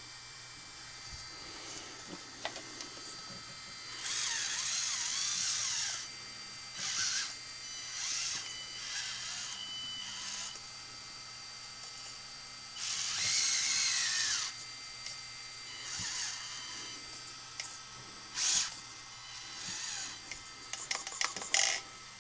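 Brushed electric motor and drivetrain of an Axial SCX30 1/30-scale rock crawler whining in short bursts as it is driven, its pitch rising and falling with the throttle. The longest bursts come about four seconds in and again about thirteen seconds in.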